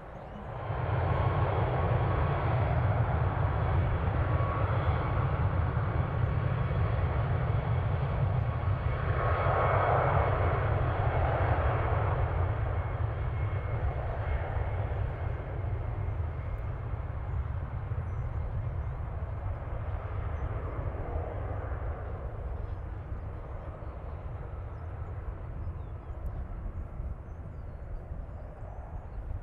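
Jet airliner passing, its engines giving a heavy low rumble with a faint steady whine. The sound comes in abruptly, is loudest for the first ten seconds or so, and then slowly fades.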